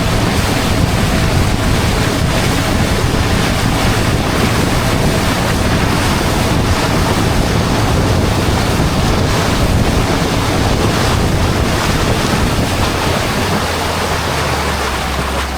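Small motorboat under way: a steady engine drone with water rushing past the hull and wind buffeting the microphone. The noise eases off at the very end.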